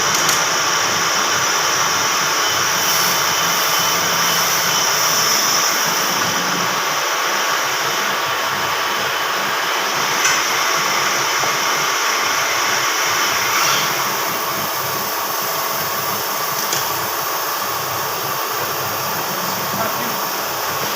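A grinding machine running steadily on Toyota 5L camshaft work, a continuous high whine over hiss. About two-thirds of the way in, the highest part of the sound eases off a little.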